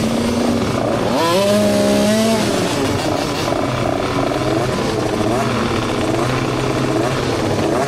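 Off-road racing engines running on the track, with more than one engine heard. One revs up sharply about a second in and holds a high pitch briefly before dropping back, and others rise and fall in pitch through the rest.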